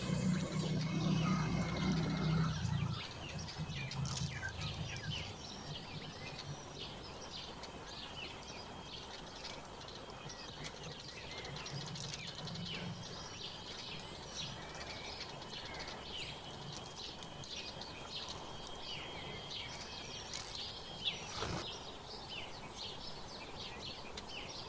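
Several small songbirds chirping and twittering in quick, overlapping short calls, with a thin steady trill held for several seconds midway. A low rumble fades out over the first three seconds, and a single sharp click comes near the end.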